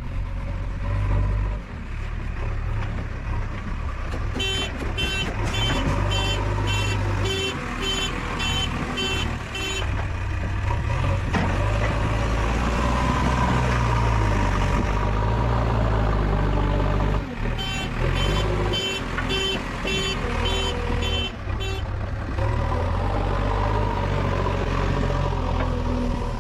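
Diesel engine of a JCB 3DX backhoe loader running steadily while working. A reversing alarm beeps about twice a second in two spells, one starting about four seconds in and another near eighteen seconds.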